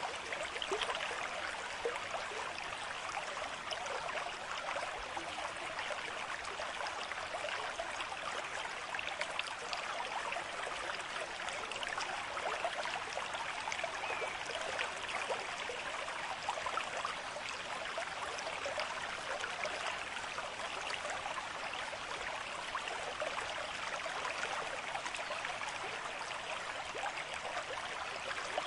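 A small stream running and trickling over stones, with a steady fine babble.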